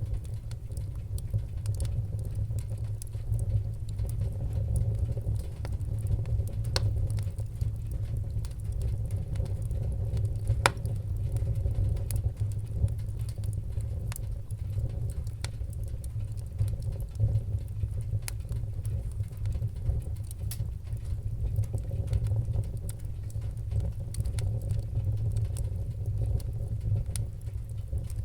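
Wood fire crackling: a steady low rumble of flames under a constant scatter of small sharp pops, with a couple of louder pops.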